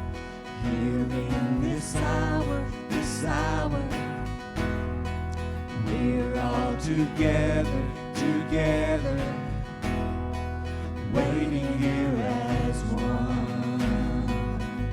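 Church worship band music with acoustic guitar over a low bass, playing throughout.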